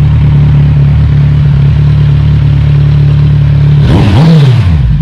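Kawasaki Z1000R's inline-four engine idling loudly with both stock mufflers removed and only the catalytic section still on the exhaust, given one quick throttle blip about four seconds in that rises in pitch and drops back to idle.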